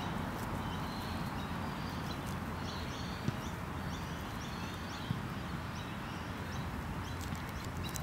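Faint, short high chirps of small birds calling again and again over a steady low rumble, with two sharp taps about three and five seconds in.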